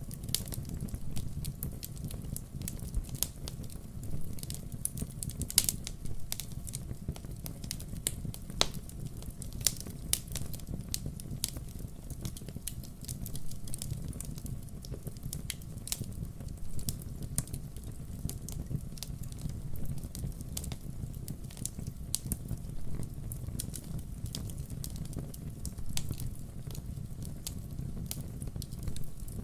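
Burning firewood crackling, with irregular sharp pops and snaps over a steady low rumble of the fire.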